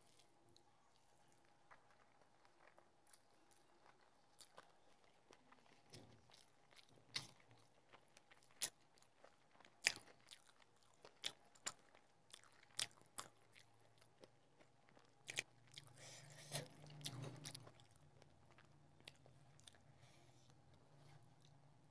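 Quiet, close-miked mouth sounds of a person chewing rice and curry, with scattered sharp wet clicks and smacks, busiest through the middle.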